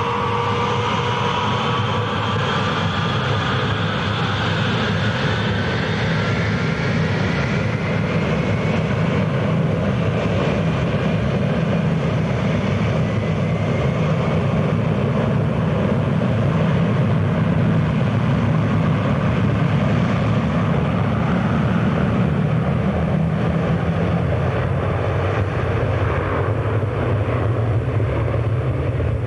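Airliner engines running loud: a whine rising in pitch over the first several seconds, over a steady, heavy rumble that carries on throughout.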